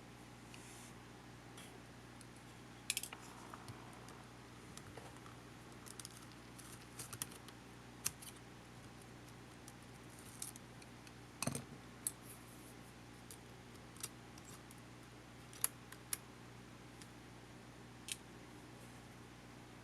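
Scattered sharp clicks and light taps of small tools and small camcorder parts being handled during disassembly, irregular and spaced a second or so apart, over a faint steady hum.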